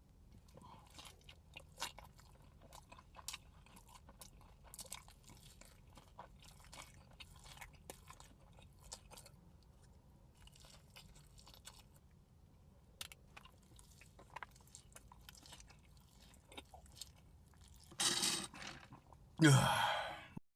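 Close-miked chewing and crunching of food, with scattered small mouth clicks and smacks. Near the end come two much louder bursts of sound, the second the loudest thing here.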